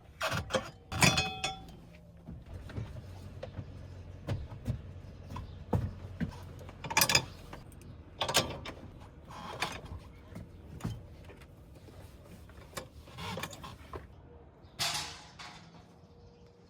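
Irregular clicks and knocks of hardware being handled, with several short louder scraping or rattling sounds spread through, over a faint steady hum.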